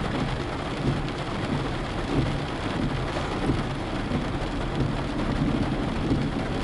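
Steady rain on a moving car, heard from inside the cabin: a dense patter of drops over a low rumble of road noise.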